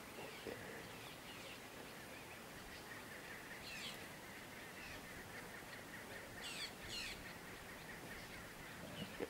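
Birds calling: many quick, faint chirps throughout, with louder falling calls about four seconds in and twice around seven seconds, and a short lower call near the end.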